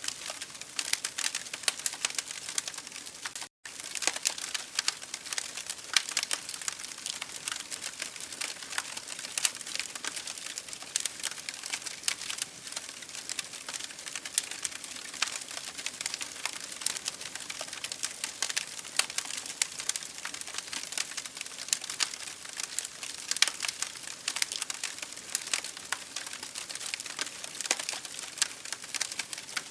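Wood fire in an open fireplace crackling, with a constant scatter of small, irregular pops and snaps over a soft hiss. The sound cuts out completely for a split second about three and a half seconds in.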